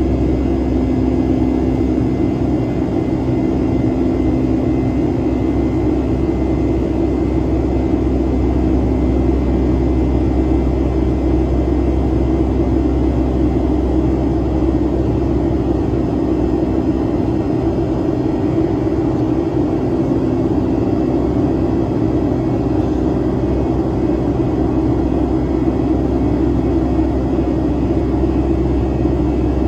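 Boeing 757-200's Pratt & Whitney jet engines running at a steady setting, heard from inside the passenger cabin as a constant loud drone with a few steady whining tones over it.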